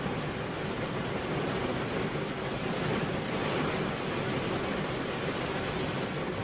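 Steady rain falling on a car's window: a dense, even hiss of drops.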